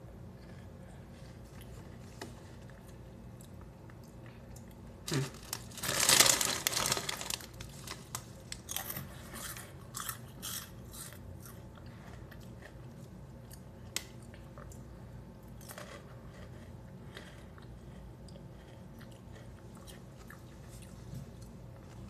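Crunchy Xtra Flamin' Hot Cheetos being bitten and chewed: the loudest crunching comes about five to seven seconds in, then softer, scattered crunches that thin out toward the end.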